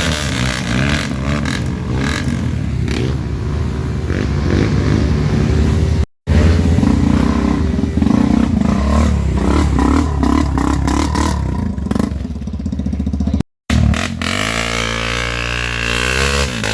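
Off-road trail motorcycles revving hard and labouring through mud, engine pitch rising and falling with the throttle. The sound drops out twice for an instant and comes back, with a rev rising and falling near the end.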